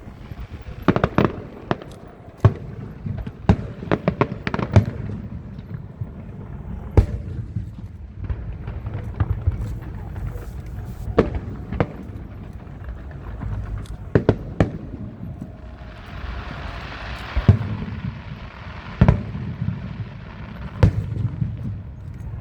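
Fireworks display: aerial shells bursting in irregular sharp bangs over a low rumble, with a hiss of about a second and a half roughly two-thirds of the way through.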